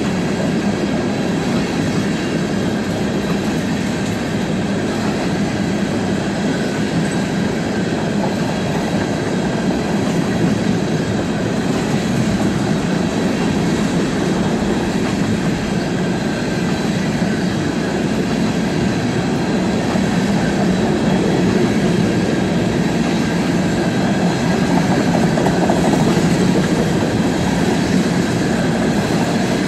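Covered hopper cars of a Norfolk Southern grain train rolling past: a steady rumble and clatter of steel wheels on rail, growing slightly louder in the latter part.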